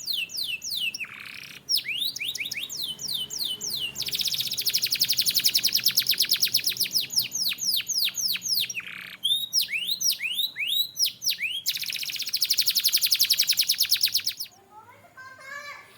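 Domestic canary singing: two long, rapid trills alternate with runs of sweeping, slurred whistled notes, and a softer, lower phrase comes near the end.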